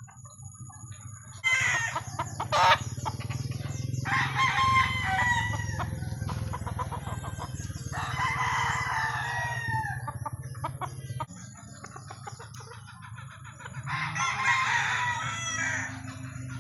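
Roosters crowing, four crows of about two seconds each, over a steady low hum.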